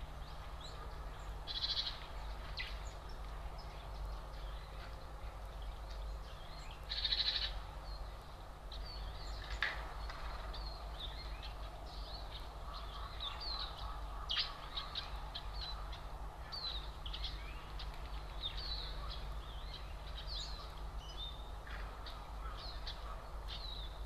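Small songbirds chirping and calling in short notes throughout, with two louder, harsher bursts about two and seven seconds in, over a steady low hum.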